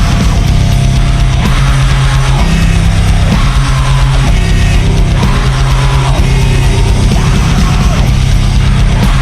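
Sludge metal: heavily distorted, down-tuned guitars and bass playing slow, sustained chords over drums.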